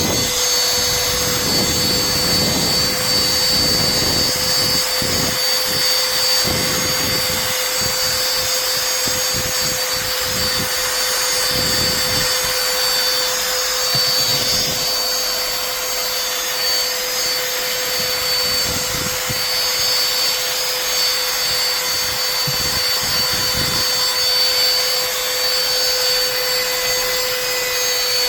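SIMWAL cordless handheld vacuum cleaner running steadily: a steady motor hum with a high whine over the rush of air, and low rumbles that come and go.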